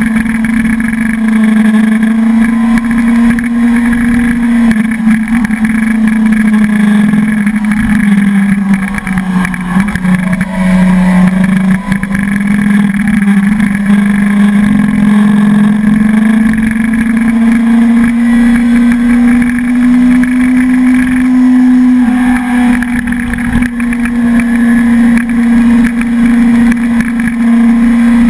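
Suzuki sport motorcycle's engine running steadily while riding uphill, heard from on the bike. Its pitch drops for a couple of seconds about ten seconds in, then climbs back up.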